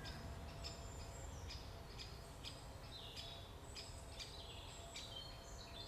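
Great spotted woodpeckers calling: a fledged chick and parent family giving repeated short, sharp calls, roughly two a second.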